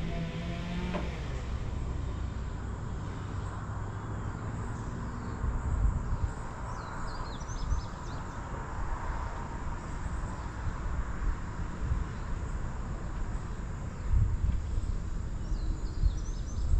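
Outdoor ambience: a steady low rumble with irregular gusts. Short bird chirps come about seven seconds in and again near the end.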